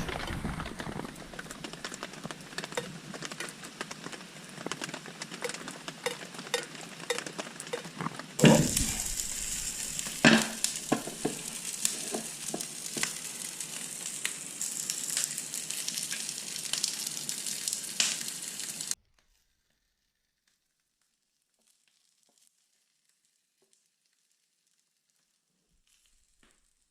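Campfire crackling and hissing, with many small pops. Just past a quarter of the way in it becomes louder and sharper, with a few bigger pops, then cuts off abruptly about two-thirds of the way through.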